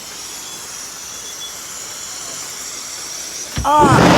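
Heavy rain hissing steadily, then a sudden loud thunderclap near the end from a close lightning strike.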